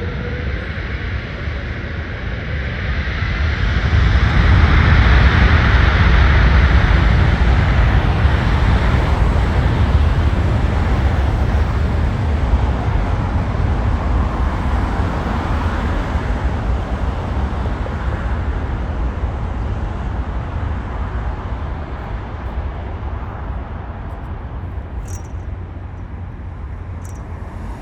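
Jet airliner passing close by: a loud, deep engine rumble that swells over the first few seconds, peaks about five seconds in, and then slowly fades away.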